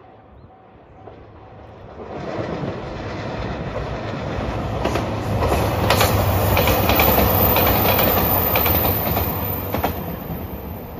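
A JR Shikoku 2700 series diesel express train passing close by, its wheels clicking over the rail joints. The sound builds from about two seconds in, is loudest past the middle, and fades near the end as the train draws away.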